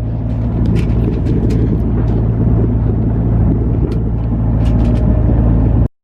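Sailing yacht's engine droning steadily as the boat motors along in a calm with no wind, heard from the bow, with a wash of noise over it; it cuts off suddenly just before the end.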